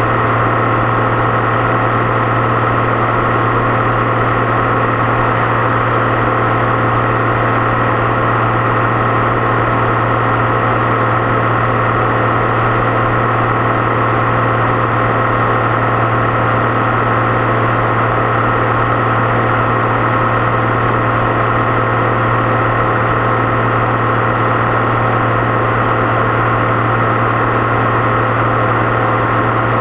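Deutz-Fahr 6.61 tractor's turbocharged diesel engine running at a steady pace, with a deep hum and a steady high turbo whine.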